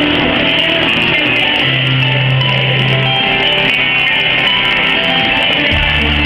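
Live pop-rock band playing a guitar-led passage with no singing, over held bass notes that shift about two seconds in and again near the end.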